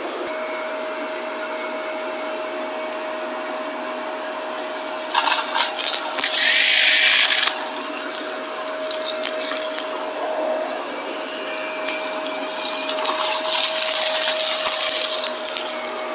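Shark vacuum cleaner running with a steady motor whine, twice breaking into a loud crackling hiss as it sucks up crunchy debris: once about five seconds in, and again near the end.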